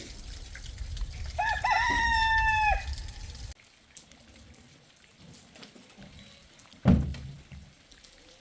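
A rooster crows once, a short rising start then a long held note, over a low rumble that stops abruptly. Near the end comes a single loud thump.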